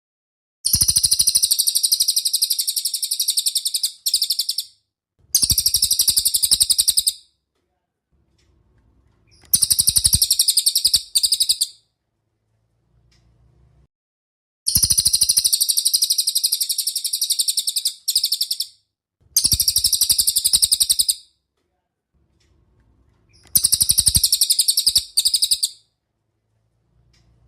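Recorded songbird calls played as a masteran tutor track: a rapid, buzzy high-pitched trill repeated in bouts of one to two and a half seconds, with short silent pauses between.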